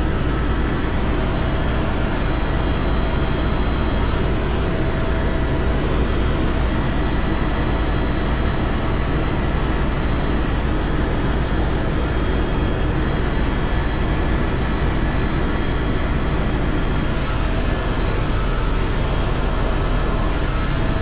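Helicopter in flight heard from inside the cabin: a loud, steady drone of rotor and engine with a strong low rumble and faint steady whine tones above it.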